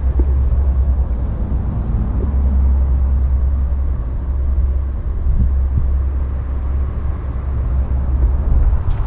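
A steady low rumble with no clear engine note, wavering in loudness.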